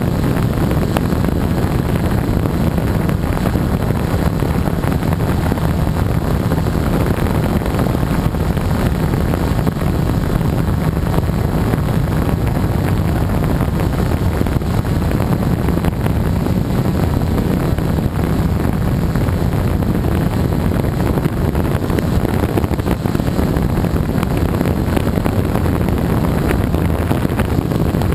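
Gaui 330X electric quadcopter's motors and propellers running steadily in flight, with wind buffeting the microphone.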